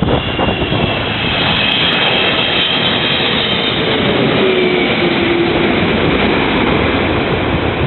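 Airliner landing: loud, steady engine and rushing air noise, with a whine that slides slightly lower about halfway through.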